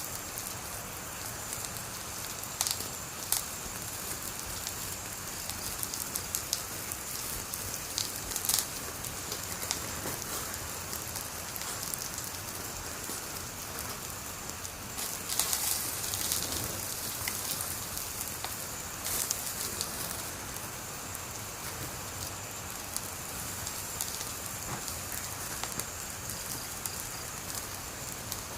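Wood fire burning with a steady hiss and scattered sharp crackles and pops, which come thickest about fifteen seconds in.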